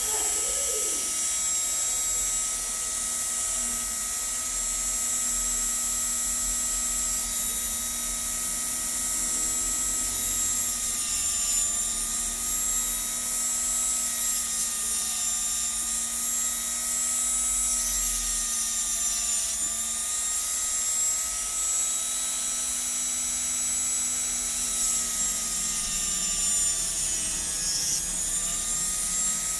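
Electric hand grinder running steadily with a high whine while an eyeglass lens edge is ground, its pitch dipping slightly a few times as the lens is pressed to the wheel.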